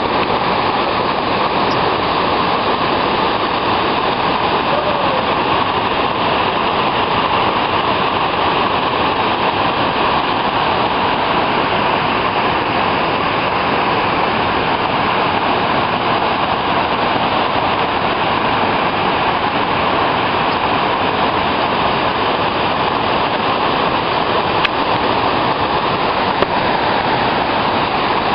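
Small waterfall, about two metres high, with water rushing steadily and evenly.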